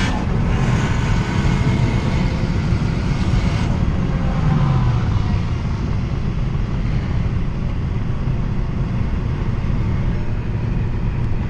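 Volkswagen GTI's engine running at low revs under steady road and tyre noise, just after a hard pull has ended, with a brief drop in engine pitch about four seconds in.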